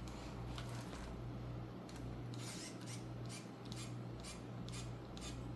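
Faint clicks and scraping of a screwdriver bit being worked against small screws on a plastic RC car chassis. The electric screwdriver barely turns the screw: it has gone flat for want of a charge.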